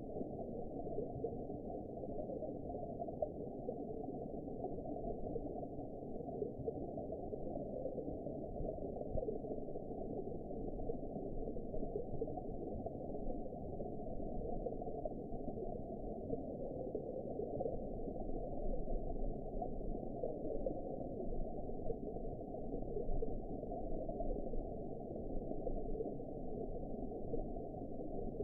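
Steady, muffled underwater ambience: a low, even rush with faint gurgling and no high sounds at all.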